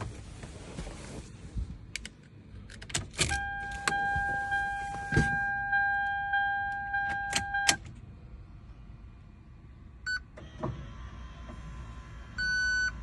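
Clicks and a jangle of keys, then a car's electronic warning buzzer sounds steadily for about four seconds and is cut off with a click. A few more clicks follow, and a short beep comes near the end.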